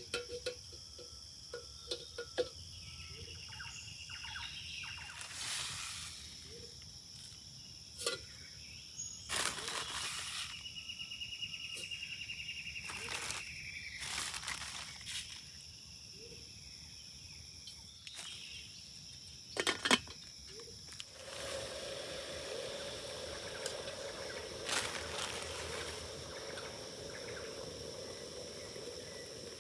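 Forest ambience with a steady high insect drone, a bird's trilled call twice, and scattered knocks and rustles. About two-thirds of the way through, a steady lower drone joins in.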